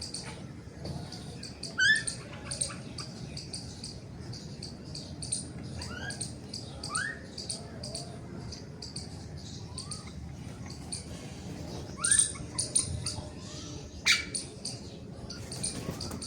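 Sparrows chirping rapidly and continuously, with a few short rising calls mixed in.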